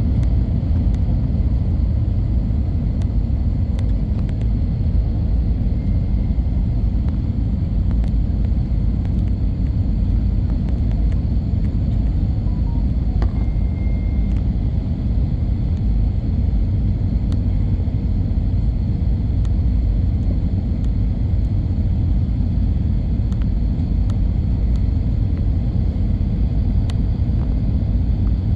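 Steady low outdoor rumble that holds at one level throughout, with a few faint ticks and a brief thin high tone about a third and halfway through.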